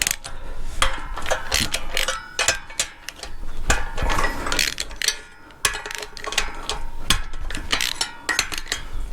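Socket ratchet wrench clicking in quick runs of strokes, with short pauses, as bolts are worked loose on an engine being taken apart.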